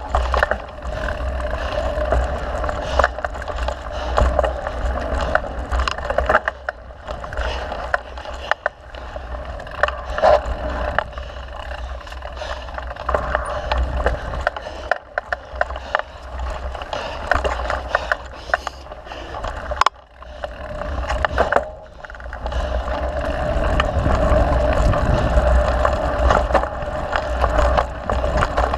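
Mountain bike riding a dirt trail: steady tyre noise with the chain and frame rattling and knocking over bumps, easing off briefly about 20 seconds in.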